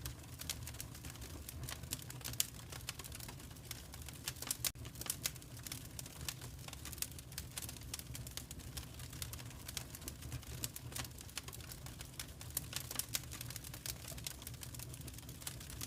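Wood fire crackling: dense, irregular pops and snaps, some sharper than others, over a low steady rumble.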